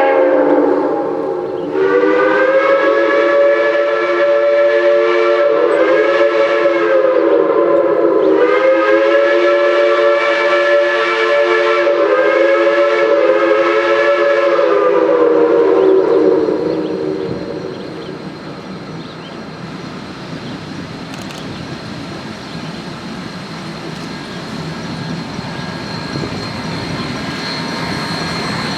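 Geared steam logging locomotive's chime whistle blowing long, wavering blasts, several notes sounding together, until it stops a little past halfway. After that the locomotive's steady rushing exhaust noise grows louder, with a thin high steady tone over it.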